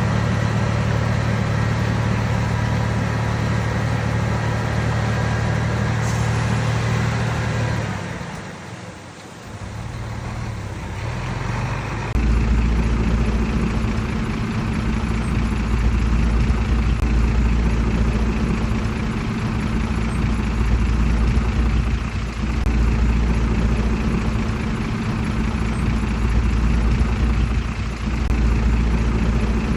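Heavy diesel engine of earthmoving machinery running steadily. About eight seconds in, the sound drops away briefly; from about twelve seconds a deeper, louder engine sound takes over.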